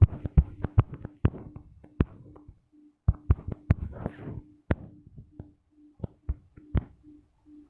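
Irregular light taps and knocks, a few a second, of fingers or a stylus on a touchscreen, with a faint on-and-off hum underneath.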